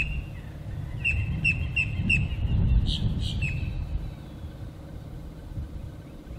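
A small bird calling: a run of four short, high chirps about a second in, then a few more, over a low rumble.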